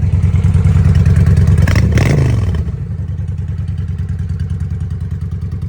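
Honda Shadow V-twin motorcycle engine running fast and loud, then easing off with a falling pitch about two and a half seconds in. It settles to a quieter, steady idle.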